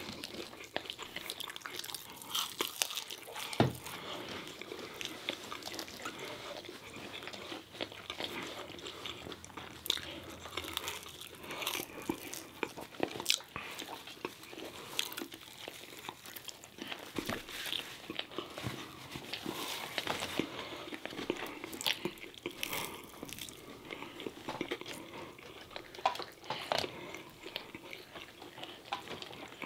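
Two people chewing and biting McDonald's food, a McChicken sandwich, french fries and chicken nuggets, with repeated crunches and wet mouth clicks. The loudest snap comes about three and a half seconds in.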